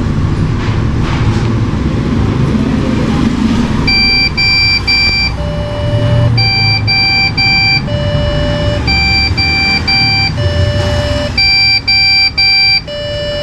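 A desktop PC's motherboard beeping a POST error code over the noise of its cooling fans. About four seconds in, a repeating cycle starts: three short high beeps, then one longer, lower tone, about every two and a half seconds. It is the error beep the owner puts down to a RAM problem, fixed by reseating or cleaning the RAM.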